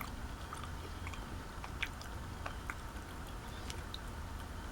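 Faint chewing of chocolate, with scattered soft mouth clicks over a low steady hum.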